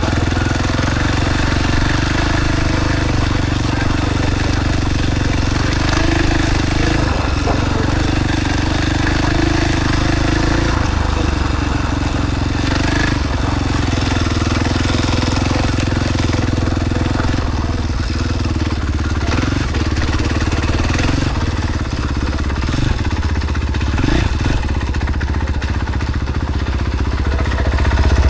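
KTM SX-F four-stroke motocross bike engine running steadily without hard revving.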